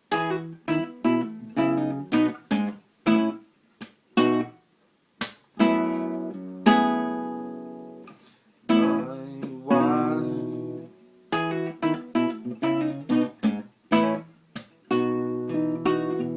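Acoustic guitar with a capo playing a chord progression: quick strummed chords, a few left to ring out for a second or two.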